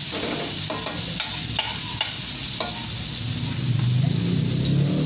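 Bamboo shoots sizzling in hot oil in a metal wok while a metal ladle stirs them, clinking and scraping against the pan several times in the first half. The stirring stops about halfway through and the sizzle carries on, with a low hum coming in near the end.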